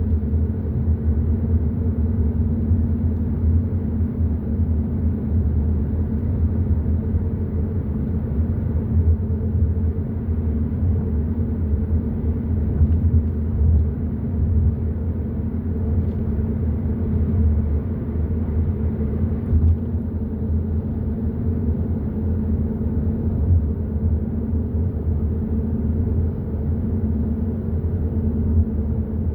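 Hyundai i30 N Line driving at a steady pace: a low, even rumble of engine and road noise with a steady hum, unchanging throughout.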